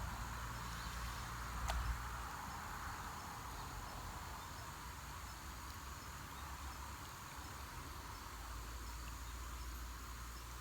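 Steady outdoor insect chorus, a continuous high chirring like crickets, with one brief click about two seconds in.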